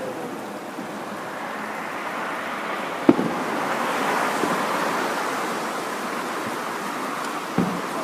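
Fireworks display: aerial shells bursting with a sharp bang about three seconds in and another near the end, over a steady hiss of burning and falling stars.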